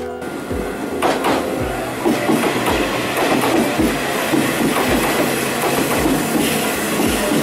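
Nishitetsu electric commuter train pulling into the station, its wheels running over the rails. The rolling noise builds over the first two seconds and then holds steady.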